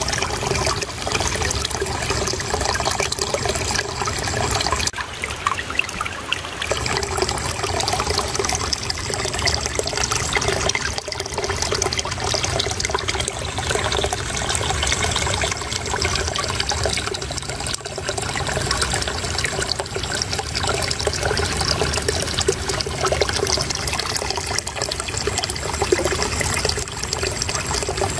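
Water flowing and trickling steadily, a continuous babbling gurgle with no breaks.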